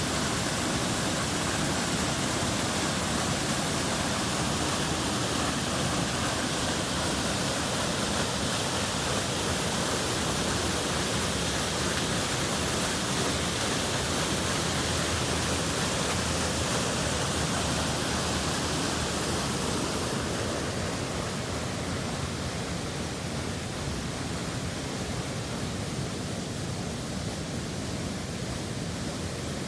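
Steady rushing of falling water, an even hiss spread across high and low pitches. About two-thirds of the way through it becomes slightly quieter and duller.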